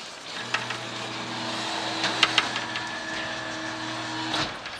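Claw machine's motors whirring steadily as the claw travels after a missed grab, with a few sharp clicks in the middle; the whir starts about half a second in and stops shortly before the end.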